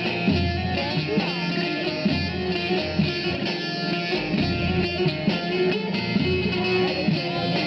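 Instrumental Turkish folk dance tune (oyun havası) with a plucked bağlama (saz) melody over electronic keyboard accompaniment and pulsing bass notes.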